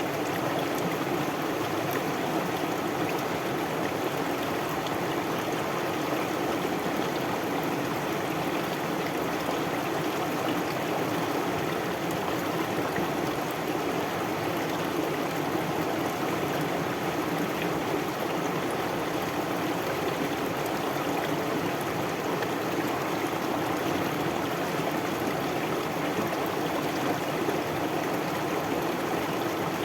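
Water of a stream flowing steadily, an even rush of running water.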